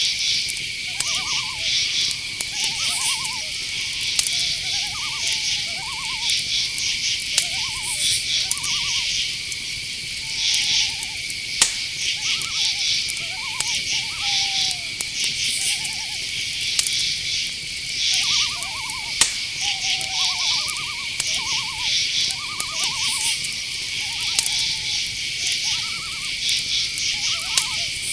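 Night-forest chorus: crickets keep up a steady high trill over rapid pulsed insect chirping. Frequent short calls lower down, some sliding in pitch, come and go throughout.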